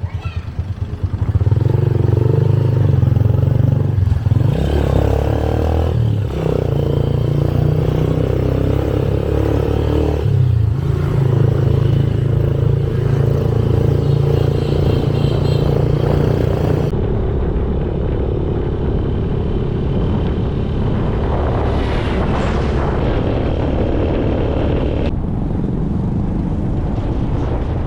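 Motorcycle engine running while riding on the road, with wind and road noise on the microphone. The engine note shifts several times in the first half, and the sound changes character about two-thirds of the way through.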